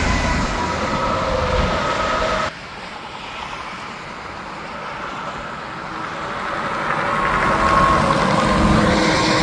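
Highway traffic: a truck passing with a falling whine that cuts off suddenly about two and a half seconds in, then another vehicle approaching and getting louder near the end.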